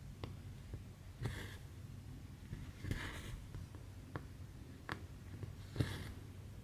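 Embroidery thread being drawn through cross-stitch fabric in soft swishes, three times, with small sharp ticks of the needle piercing the fabric in between.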